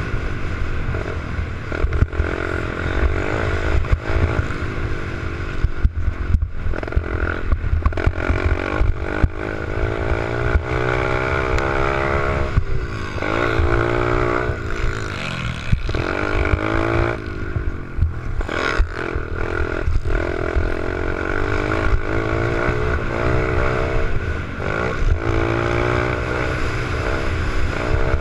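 Small 88cc pit bike engine being ridden, its pitch rising and falling over and over as the throttle opens and closes, with frequent short knocks and rattles.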